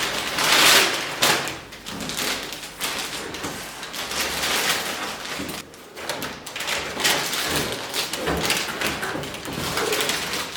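Packaging being handled: uneven rustling of wrapping and cardboard, with a few thumps.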